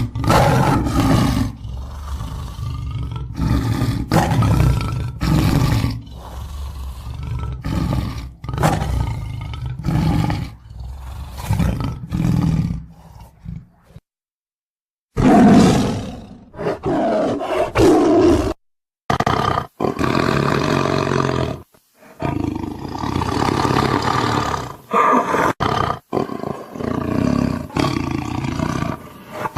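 Tiger growling and roaring in a long run of deep, rough calls. The sound cuts off abruptly again and again, with two brief dead silences about halfway through.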